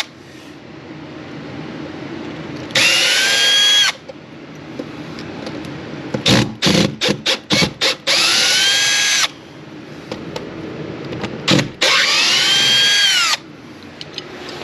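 Power drill run in three short bursts of about a second each, its pitch rising as the motor spins up, holding, then dropping as it stops. Between the first two bursts comes a quick run of sharp knocks and clicks.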